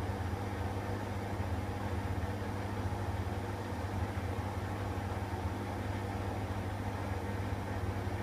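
Hoover WDYN 11746 PG8 washer-dryer running with a steady, even motor hum, during its first rinse and 400 rpm intermediate spin stage.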